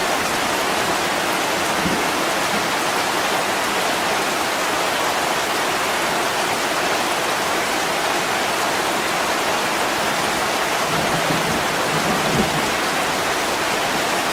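Steady heavy rain falling on a window, an even hiss without a break. A brief low rumble comes in near the end.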